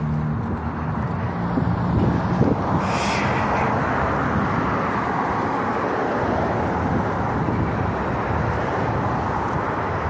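Steady outdoor road-traffic noise that swells about two seconds in and eases off again after about six seconds.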